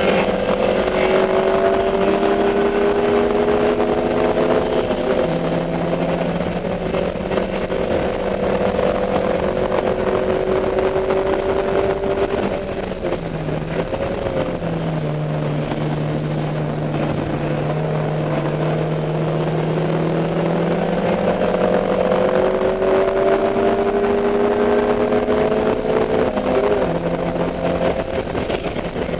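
Dodge Neon race car's four-cylinder engine heard onboard under hard acceleration. Its pitch climbs slowly and steps down at each upshift. About halfway through it drops off briefly, lifting for a corner, then pulls up through the gears again.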